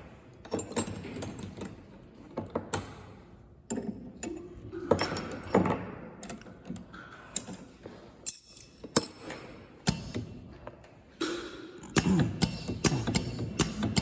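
Irregular sharp clicks, knocks and light rattling of small hard parts being handled, growing denser near the end.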